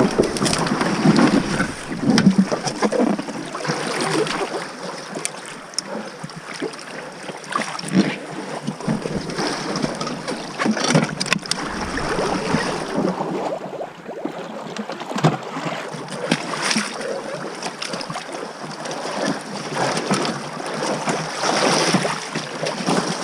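Water splashing and sloshing around a small boat making its way down a river, with irregular knocks and splashes throughout and wind buffeting the microphone.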